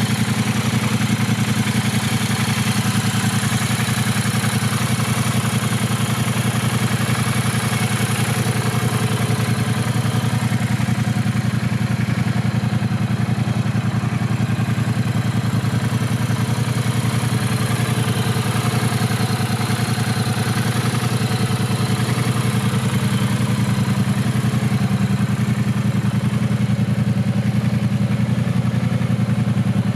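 Triumph Bonneville Speedmaster 1200's parallel-twin engine idling steadily, with no revving.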